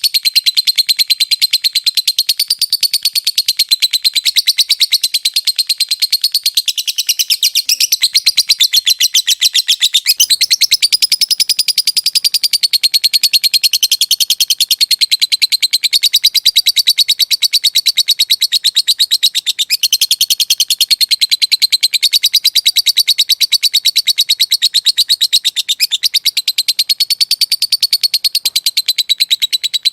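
Lovebird singing a long, unbroken ngekek: a rapid, rattling string of high chattering notes that runs on without a pause, its pitch wavering slightly.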